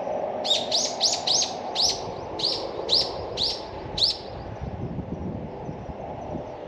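A bird calling a quick series of about nine sharp, high chirps over some four seconds, then stopping, over a steady low background rumble.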